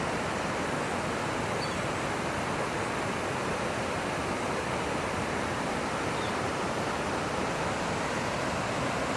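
The Big Thompson River in flood: a steady, unbroken rush of fast-moving floodwater.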